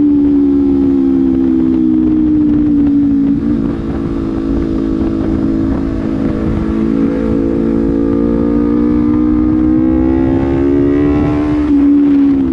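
Honda CBR250RR engine through a Proliner slip-on exhaust while riding. The note eases off slightly, dips briefly about three and a half seconds in, then climbs slowly under acceleration and drops near the end with a gear change.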